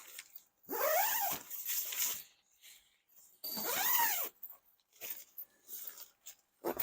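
Nylon tent-door zipper being pulled, two long zips whose pitch rises and falls as the pull speeds up and slows, then shorter tugs and rustles of tent fabric.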